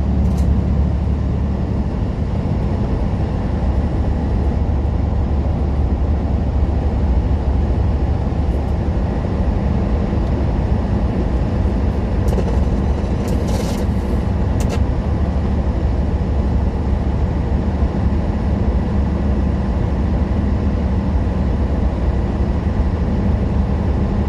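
Semi-truck cab noise while driving: a steady, loud low engine drone with road noise. A few short clicks come about halfway through.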